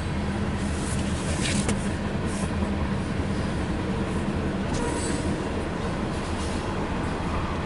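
Cars of a long CN freight train rolling past with a steady rumble, with brief high wheel squeals about a second and a half in and again around five seconds.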